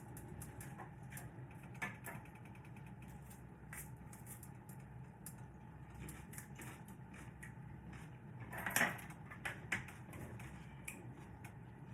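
Food cooking in a pan on the stove: irregular crackles and ticks over a steady low hum, with a louder clatter about nine seconds in.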